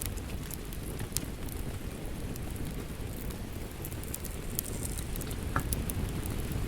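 Wood fire crackling in a fireplace: a steady low rush of flames with scattered sharp pops and snaps.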